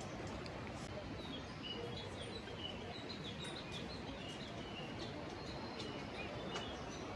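Small birds chirping repeatedly in short calls over steady outdoor background noise.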